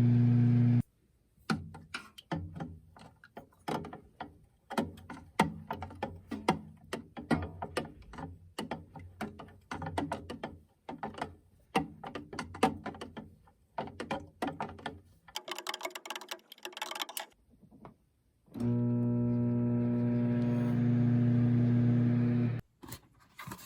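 Microwave oven running with a steady mains hum, which cuts off abruptly under a second in. Plucked guitar music follows, and then the microwave's hum comes back for about four seconds near the end.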